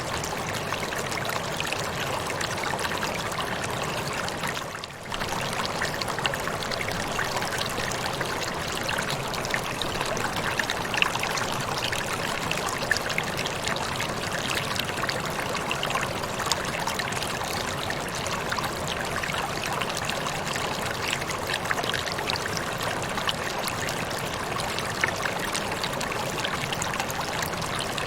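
Waterfall: water falling and splashing in a steady, dense rush, dipping briefly a little under five seconds in.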